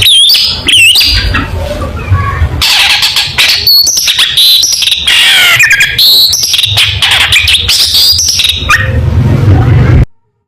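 Long-tailed shrike (cendet) singing loudly in a fast, dense stream of chirps, quick whistled glides and harsh scratchy notes, breaking off suddenly about ten seconds in.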